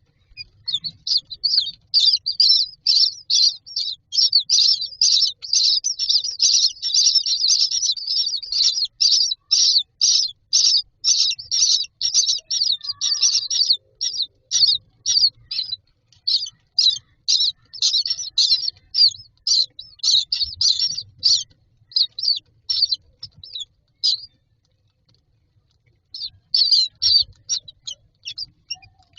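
Common myna nestlings giving rapid, high, repeated begging chirps, about four a second, as they wait to be fed. The calling stops for a couple of seconds near the end, then resumes.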